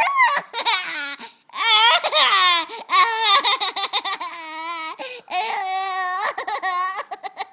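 A high-pitched voice squealing in a run of calls, one after another with short gaps, the pitch wavering up and down within each.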